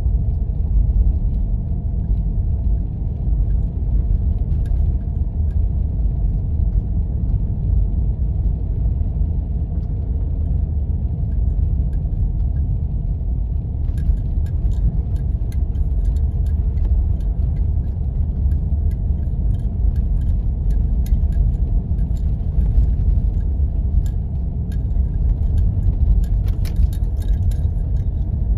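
Steady low road and engine rumble inside a Jeep's cabin while driving on snowy roads, with faint ticks and rattles from about halfway through.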